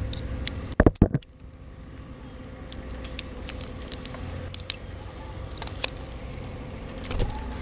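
A few sharp knocks about a second in, then scattered light metallic clinks of tree-climbing and rigging gear over a low steady rumble.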